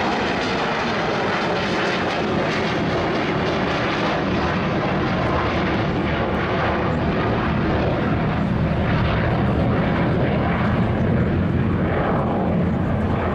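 Boeing 727's three Pratt & Whitney JT8D turbofans in a low display pass: loud, steady jet noise that swells a little toward the end.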